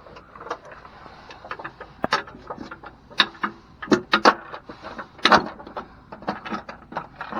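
Irregular clinks and knocks of metal hardware as bolts and step-rail brackets are handled and started by hand under a truck, a sharper knock every second or so.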